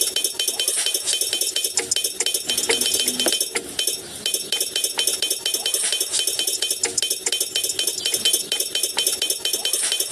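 Rapid, continuous light clinking and rattling of many small hard objects knocking together.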